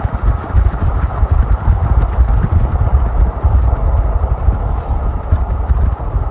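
Union Pacific diesel locomotive idling: a steady, loud low rumble with an uneven pulsing beat.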